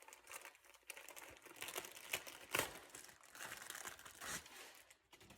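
Wrapping being pulled off a new engine air filter: irregular crinkling and tearing rustles that stop near the end.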